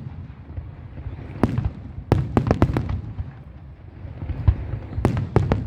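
Fireworks display: shells bursting in quick clusters of sharp bangs, with a rumbling echo between them. There is a single burst, then a rapid run of several about two seconds in, another lone bang near four and a half seconds, and a new cluster near the end.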